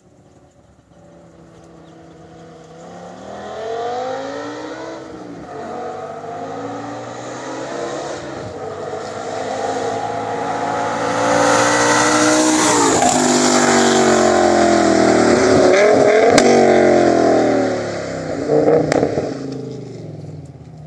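BMW E60 M5's V10 through catless headers and a Corsa exhaust, accelerating through several gear changes and getting louder. Over the last few seconds the pitch falls and the sound fades.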